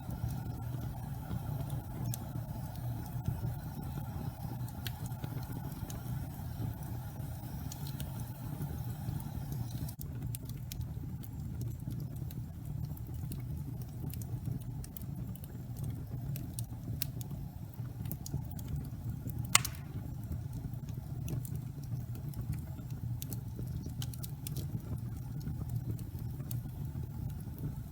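Wood fire burning in a fireplace: a steady low rumble with scattered small crackles and one louder pop a little past the middle.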